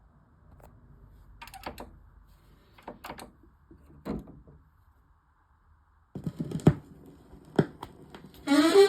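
Scattered light clicks and knocks, with a few louder thumps about six seconds in; music with a pitched instrument begins near the end.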